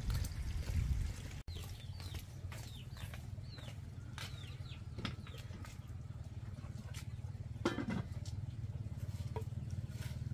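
Birds chirping in short, quick falling notes over a steady low hum, with one louder call a little before the end.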